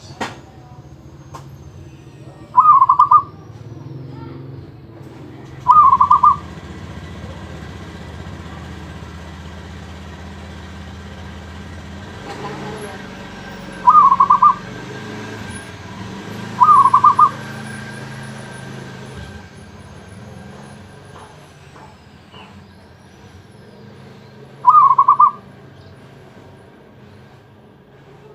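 Zebra dove (perkutut) cooing: five short, staccato phrases of quick notes, each about half a second long, several seconds apart, over a steady low hum.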